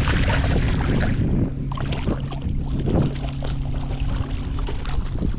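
Wind buffeting a kayak-mounted camera's microphone and water sloshing against the kayak, loudest in the first second and a half. A low steady hum runs underneath after that.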